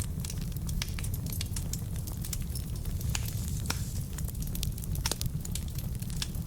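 Wood fire burning in a fireplace: a steady low rumble of flames with frequent small, sharp crackles and pops from the logs at irregular intervals.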